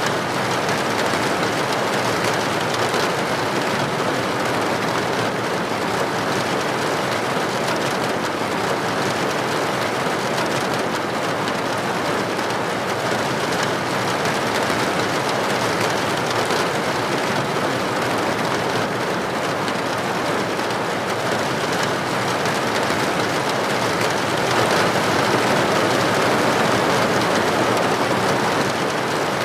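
Steady rain, an even rushing hiss that swells slightly near the end.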